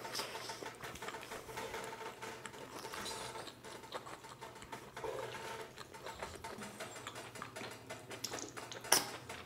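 Close-miked chewing of teriyaki yaki udon noodles: a steady run of small wet mouth clicks and smacks. A few sharper clicks near the end.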